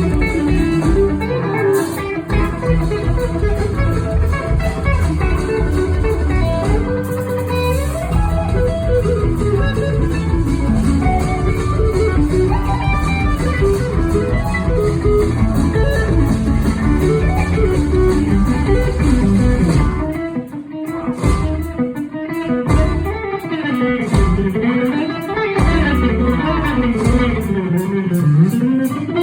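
Loud live band music, with an electric guitar leading over bass and a steady beat. About twenty seconds in, the full band thins out and the guitar plays notes that slide up and down in pitch.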